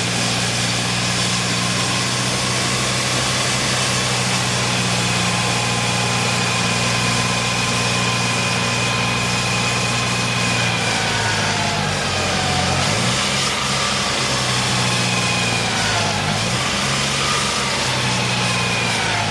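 An engine running steadily, its pitch holding for a while and then wavering up and down from about 11 seconds in.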